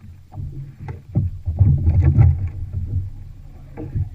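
Knocks and an uneven low rumble from a fishing kayak on the water, with water and gear moving against the hull.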